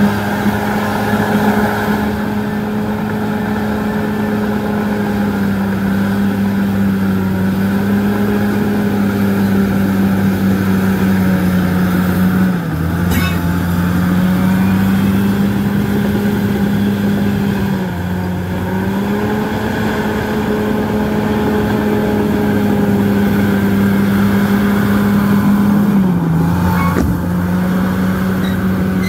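Bulldozer's diesel engine running steadily, its pitch sagging briefly and recovering three times, about 12, 18 and 26 seconds in.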